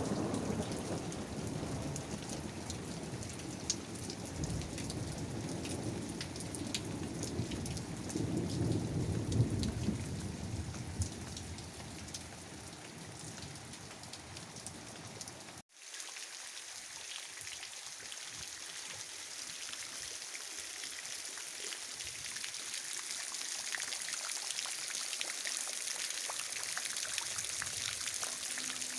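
Steady rain falling, with thunder rumbling low through the first half, loudest about a third of the way in. After an abrupt cut about halfway, the rain goes on alone with a thinner, brighter hiss.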